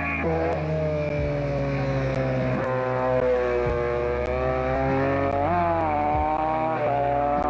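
Competition car engine running hard on a timed stage, its note repeatedly dropping and climbing again through gear changes and lifts, with a sharp rise in revs about five and a half seconds in.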